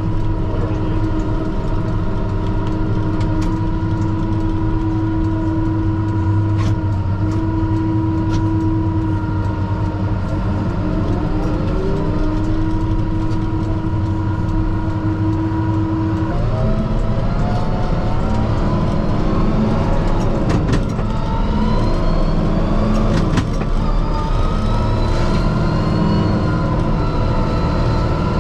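Kubota M5-091 tractor's four-cylinder turbo-diesel heard from inside the cab. It runs at a steady speed with a held whine for about the first half, then revs up and down through the second half. A few sharp clicks sound over it.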